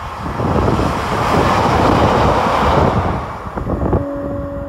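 Two-car diesel multiple unit passing close beneath an overbridge: engine and wheel-on-rail noise builds to a loud rush, then fades as the train goes away under the bridge. About four seconds in, a steady two-note hum starts.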